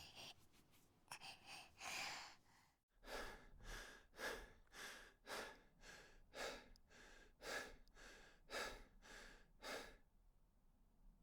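A person breathing quickly and rhythmically, faint, about two breaths a second. A few softer breaths come first, and the breathing stops about a second before the end.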